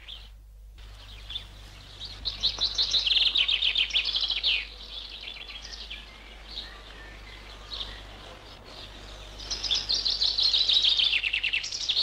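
Birds singing: two spells of rapid, trilled high chirping, one about two seconds in and another near the end, over a steady low hum and faint hiss.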